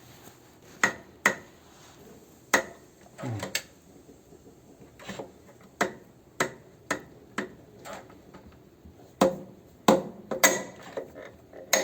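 Sharp, irregular dry knocks and clicks from the drive parts of an opened washing machine as they are pushed and moved by hand, about a dozen in all. This is the dry knocking traced as the machine's noise on spin, taken to come from a part striking out of position.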